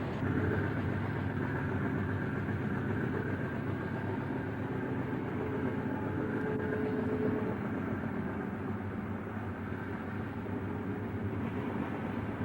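Diesel locomotive engine running steadily during switching moves.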